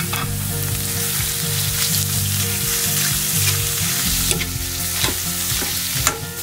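Ground pork, garlic and onion sizzling in oil in a stainless steel wok as they sauté. A metal spatula stirs them, scraping and clicking against the pan a few times, mostly in the second half.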